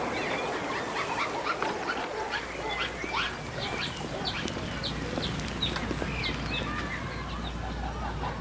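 Birds chirping, with many short, quick calls several times a second, over a low steady rumble that comes in about two seconds in.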